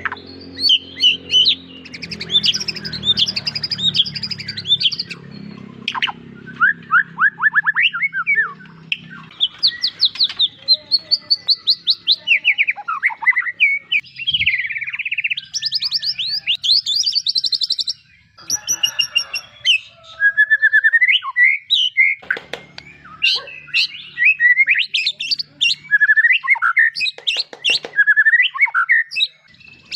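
Songbird song played as a master track for training white-rumped shamas: fast strings of repeated chirps and trills, high and shrill, with brief pauses between phrases. A low steady hum sits underneath for the first third and again briefly later.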